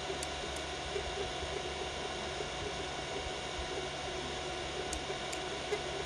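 Biqu BX 3D printer running a print at 120 mm/s: a steady whir of its fans and motors with a few faint ticks.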